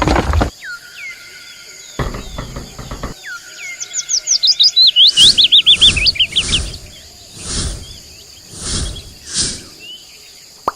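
Birds chirping, with a rapid run of trilling chirps about four seconds in, over a steady high insect-like buzz. Short rustling bursts of noise come and go, one near the start and several in the second half.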